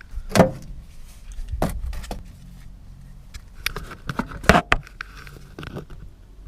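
Metal tools and parts clinking and knocking, a handful of separate sharp strikes with the loudest about four and a half seconds in.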